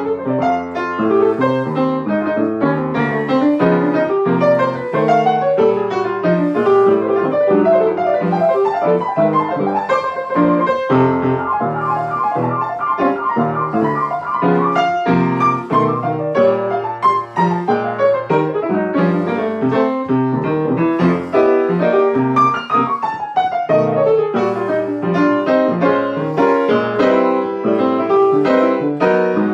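Solo piano playing an instrumental solo in a jazz-pop song, with busy chords and melodic runs. About ten seconds in, a high note is struck over and over for a few seconds.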